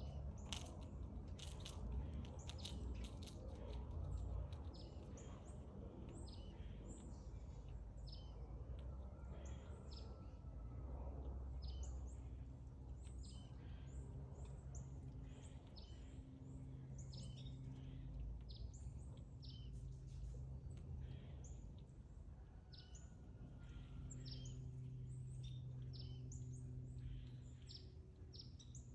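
Backyard birds chirping, many short high calls coming in quick, overlapping runs, over a low steady hum. A few sharp clicks in the first few seconds.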